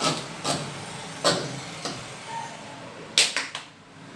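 Sharp knocks and clicks of a hard part being pushed and worked into a tight fitting by hand, a few scattered knocks and then a loud quick run of three about three seconds in.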